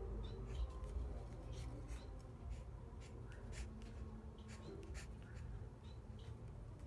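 Irregular scratchy clicks and scrapes, with a few short faint bird chirps near the start and near the end.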